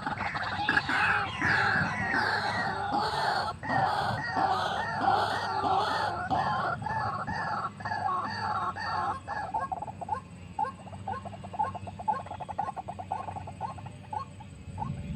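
White-breasted waterhen calling: a fast, rhythmic run of repeated notes that thins into separate, evenly spaced notes in the second half.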